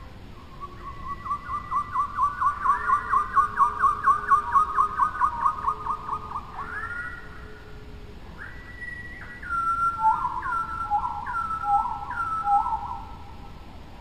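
A bird singing clear whistled notes. First comes a long, fast run of repeated notes, about five a second, that ends around six and a half seconds in. Then, after a pause, four short phrases follow, each whistle stepping down in pitch.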